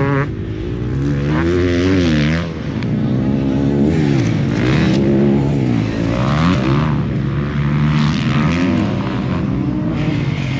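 Several motocross dirt bike engines revving, the pitch repeatedly climbing and dropping as they accelerate and shift around the track, with more than one bike heard at once.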